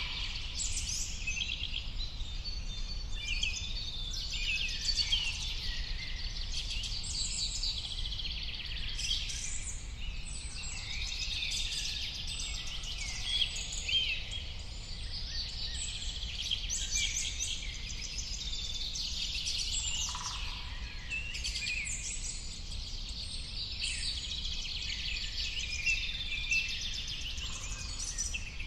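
Many birds singing and chirping at once, their calls overlapping without a break, over a low steady rumble.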